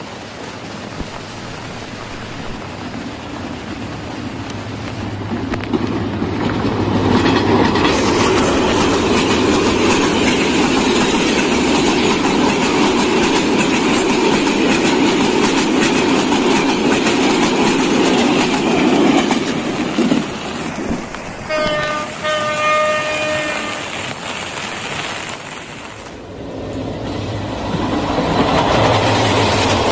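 Passenger train running past on the rails, its clatter rising as it nears and staying loud for about ten seconds. A little past the middle, a train horn sounds briefly in two short blasts. Near the end, a diesel locomotive's engine rumbles as it passes.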